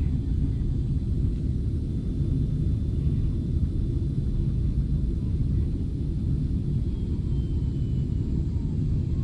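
Boeing 777-300 jet engines and airflow during takeoff: a steady, deep rumble with faint high whining tones above it.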